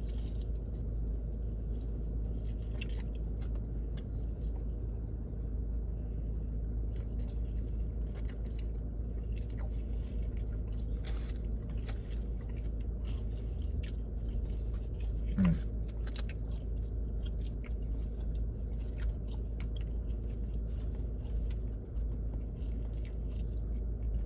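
A man chewing and biting food, with many small mouth clicks, over a steady low hum. One short vocal sound comes about two-thirds of the way through.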